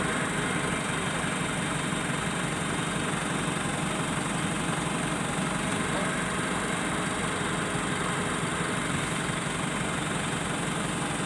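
Crane truck's engine idling steadily, an even low hum with no change in speed.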